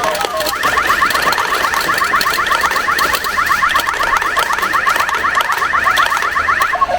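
Newgin Excite Jack pachinko machine's electronic sound effect: a fast run of short rising beeps, about seven a second, like an alarm, starting about half a second in and breaking off briefly near the end, over a light ticking clatter.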